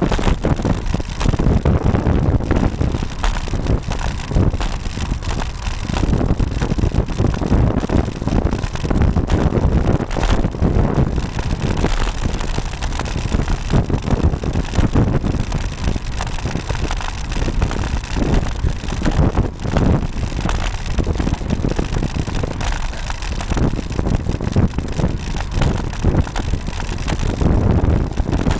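Wind buffeting the microphone of a bike-mounted camera while the bicycle is ridden along a road: a loud, gusting rumble of wind and road noise.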